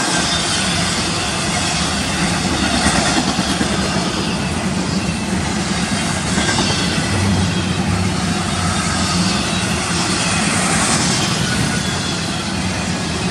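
Freight train cars rolling past at track speed, a steady rumble and rush of steel wheels on rail.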